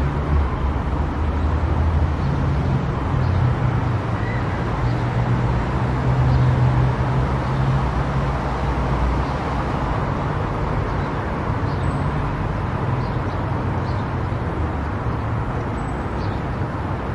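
Car driving at highway speed: steady tyre and road noise over a low rumble that swells and eases slightly.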